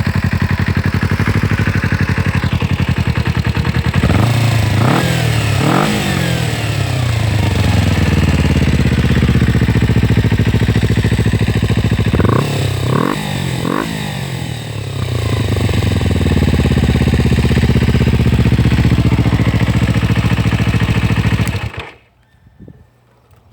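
Kawasaki Ninja 250's parallel-twin engine idling through an aftermarket sport exhaust, blipped in a few quick revs about four seconds in and again around twelve seconds in. The sound stops abruptly near the end.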